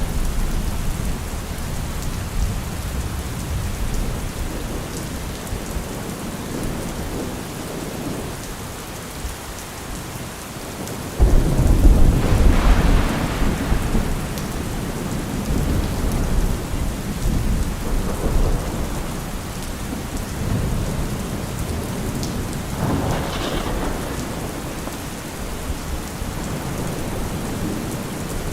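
Steady rain falling with rolling thunder. About a third of the way in a loud crack of thunder breaks in and rumbles away over several seconds, with softer rolls of thunder later on.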